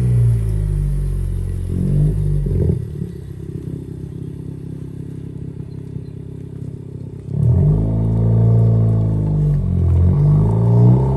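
Exhaust of a 2018 Honda Civic hatchback's 1.5-litre turbo four-cylinder, with muffler and resonator deleted and blast pipes fitted, rising and falling in revs; it drops to a quieter, steadier note about two and a half seconds in, then revs up and down louder again from about seven seconds.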